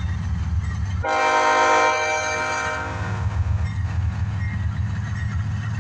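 CSX diesel locomotives rumbling as they pull a freight train past. About a second in, the locomotive's air horn sounds one steady blast of about two seconds.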